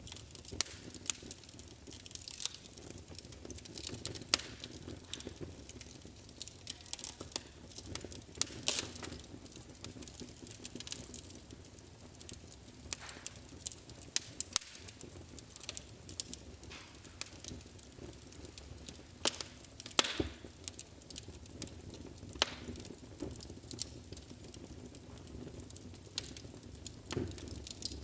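Wood fire burning in a fireplace: irregular crackles and sharp pops over a low steady hiss.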